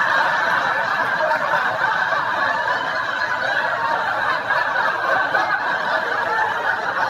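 Canned audience laughter: many people laughing and chuckling together at an even level.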